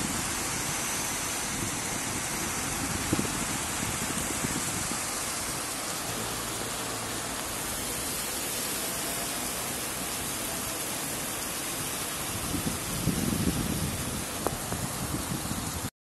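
Heavy rain pouring steadily, an even hiss, with a low rumble swelling briefly near the end.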